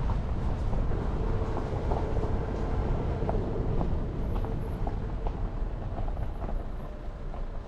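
Jeep Renegade driving along a mountain forest road: a steady low rumble of tyres and engine, with scattered light clicks and knocks.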